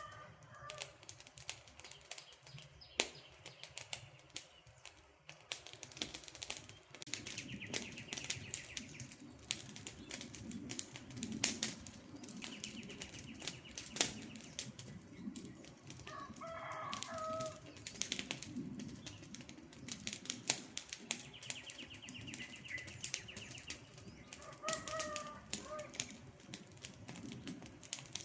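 Wood campfire crackling, with frequent sharp snaps and pops. A bird calls briefly three times, near the start, about midway and near the end, and short buzzy trills come and go.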